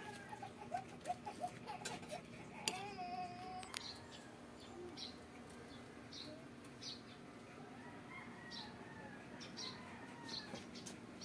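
Faint birds calling: a few short pitched notes and one drawn-out call in the first four seconds, then a steady run of short high chirps about once a second, with scattered light clicks.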